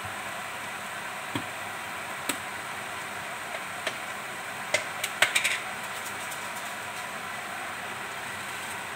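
Tempeh stir-fry sizzling steadily in a wok over a gas flame, with a few sharp clicks and taps, several in quick succession about five seconds in.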